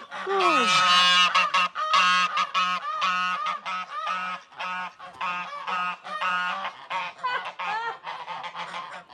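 Domestic geese honking, several at once, in a dense run of short, harsh, rapidly repeated calls that grows sparser toward the end.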